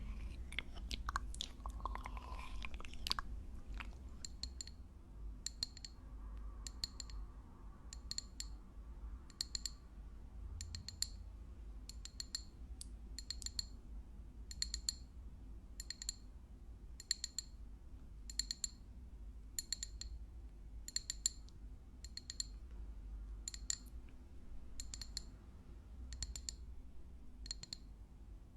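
Close-up wet, crisp chewing of popping boba in the first few seconds. It gives way to a steady run of sharp clicks, about three every two seconds, that keeps on to the end.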